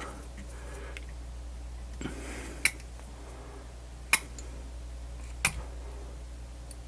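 Three sharp light clicks about a second and a half apart, from small objects being handled on a workbench, over a steady low hum.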